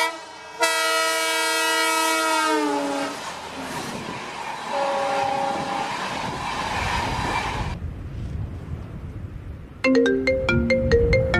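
A train horn blows a loud multi-tone chord that drops in pitch as it passes. The train's rushing noise follows, with a second, fainter horn blast, and the noise cuts off abruptly. Near the end, a run of quick plucked music notes starts.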